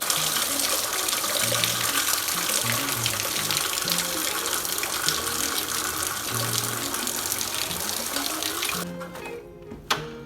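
Water rushing and splashing down from a leaking water pipe in a ceiling, with background music underneath. The water sound cuts off abruptly near the end.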